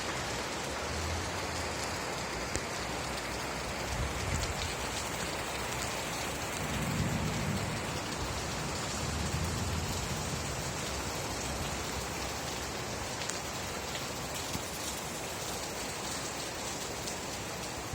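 Steady rain falling, with scattered sharper drop ticks and a couple of low rumbles partway through.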